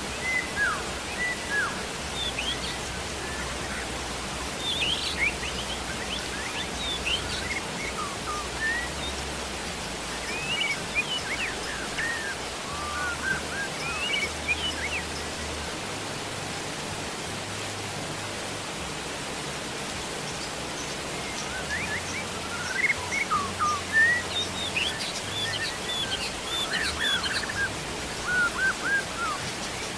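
Steady rain making an even hiss, with small birds chirping in scattered clusters of quick, high calls over it, busiest in the first half and again in the last third.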